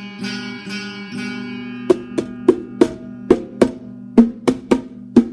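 Acoustic guitar chords ringing. About two seconds in, a drum starts being struck in a quick, uneven rhythm, roughly two or three hits a second, over a held low chord.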